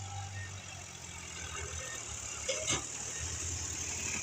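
Tractor diesel engine running with a steady low, pulsing hum and a short clatter about two and a half seconds in.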